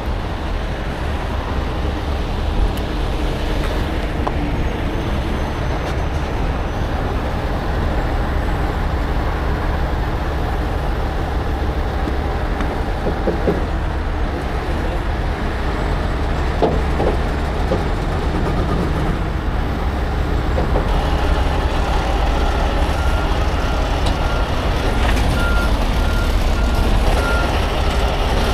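Heavy truck's diesel engine running with a steady low rumble. Near the end a reversing alarm starts beeping in an even on-off rhythm.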